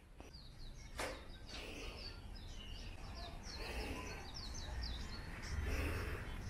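Small birds chirping: a quick series of short, falling chirps for about four seconds, over a low steady rumble that grows louder near the end.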